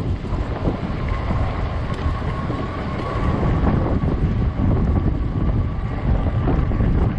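Strong gusting wind buffeting the microphone on a moving e-bike, a heavy fluttering rumble, with a faint steady whine through the middle.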